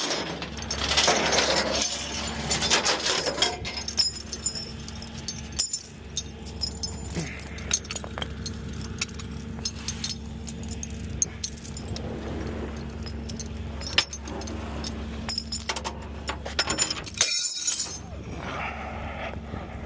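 A truck engine running steadily, with repeated metallic clinks and rattles over it.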